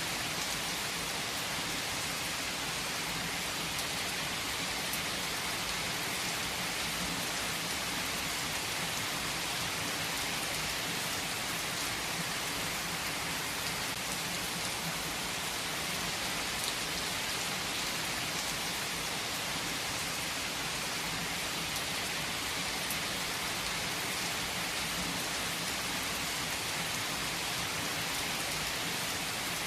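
Steady heavy rain falling and pattering on surfaces, an even hiss with occasional individual drop ticks.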